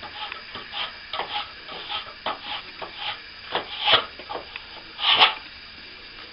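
A hand tool scraping over plaster in a run of short, irregular strokes, the two longest and loudest about four and five seconds in.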